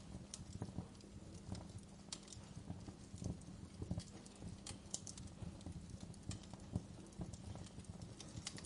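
Wood fire crackling in a fireplace: irregular small snaps and pops, a few sharper ones, over a low steady rumble of the burning fire.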